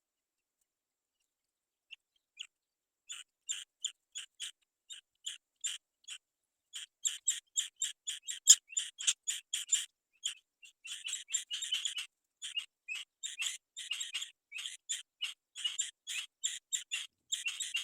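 Black-winged kite nestlings calling: a rapid series of short, high-pitched chirps, several a second, starting about two seconds in and getting busier and louder after about seven seconds.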